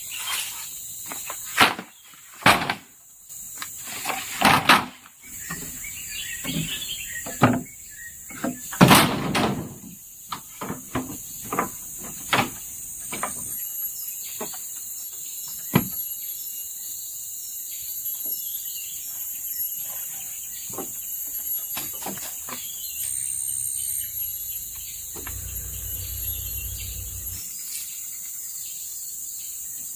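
Irregular knocks, taps and scrapes of bamboo being worked by hand, thick in the first dozen seconds and then sparser, over a steady high insect drone.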